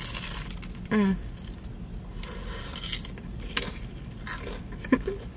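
Close-up chewing and crunching of a fried Korean corn dog coated in potato cubes, in irregular crackly bursts with wet mouth clicks. A short hummed 'mm' comes about a second in.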